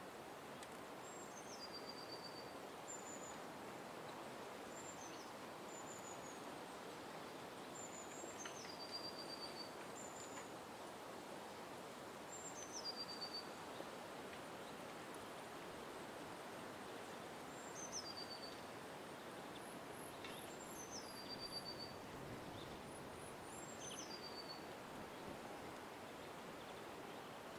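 Small bird singing a short, high phrase over and over, every two to four seconds. Each phrase is a thin whistle that steps down in pitch and ends in a brief trill. A few quick, very high chirps come in the later part, over a steady, faint background hum.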